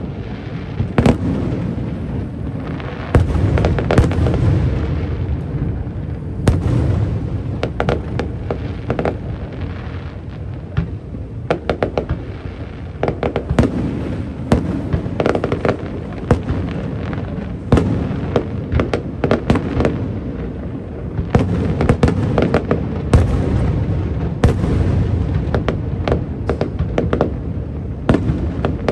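Aerial fireworks display bursting: repeated booms and sharp crackling reports, often many in quick succession, over a continuous low rumble.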